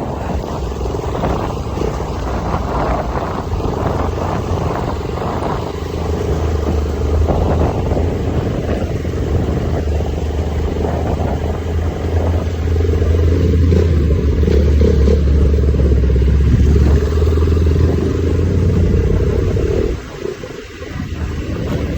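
250 cc dirt bike engine running under way, holding a fairly steady note for much of the time. It drops off briefly about twenty seconds in, then picks up again.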